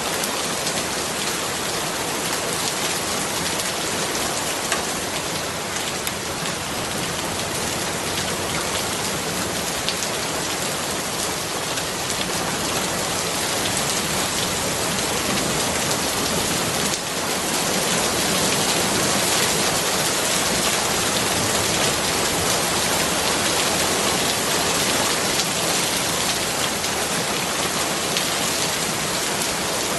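Steady rain falling, a dense, even patter of drops that gets a little louder a little past halfway.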